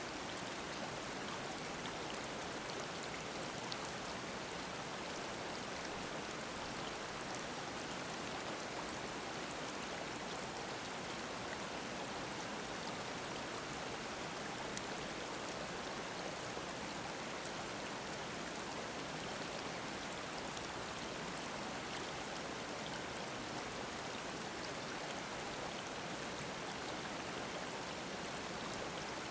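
Mountain stream babbling steadily over rocks, a constant rush of water with small splashes and drips throughout.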